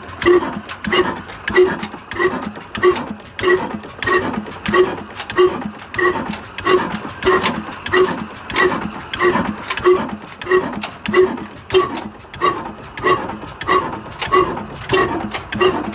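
Heavy old black stationary diesel engine, a 35 HP Ruston Hornsby type, running slowly and evenly after its hand start. Its exhaust chuffs at a steady beat of about one and a half a second.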